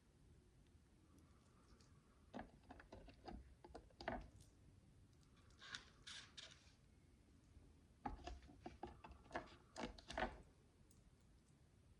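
Quiet clicks and taps of micro bricks (miniature plastic building bricks) being handled and pressed together, coming in small clusters, with a brief rustle about six seconds in.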